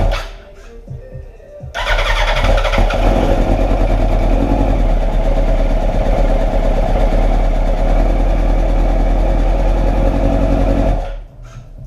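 Starting on a 2006 Yamaha R1's inline-four engine: a burst of about a second, then about nine seconds of steady, fast-pulsing engine noise that cuts off suddenly.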